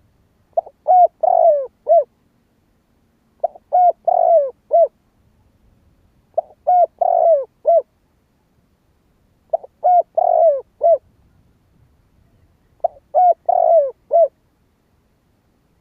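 Spotted dove cooing: five repeated song phrases about three seconds apart, each a quick run of short coos around a longer note, the last coos falling in pitch.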